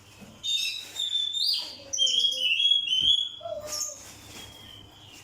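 Oriental magpie-robin (kacer) song: a run of varied, clear whistled phrases, loud from about half a second in and fainter after about four seconds. It is played as a lure song to get caged magpie-robins singing.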